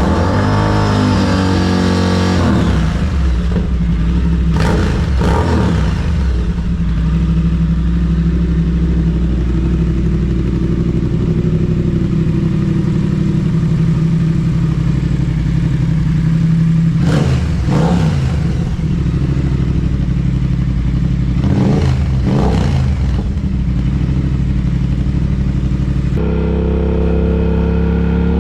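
Triumph Speed Twin's parallel-twin engine idling through its exhaust, with about four throttle blips that rev it up and let it fall back. About 26 seconds in the sound cuts abruptly to a different recording of the engine.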